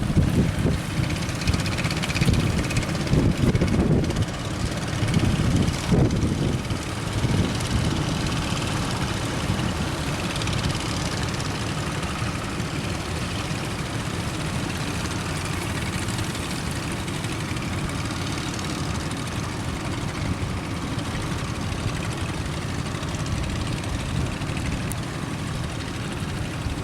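Boat engine running steadily, with wind buffeting the microphone during the first several seconds.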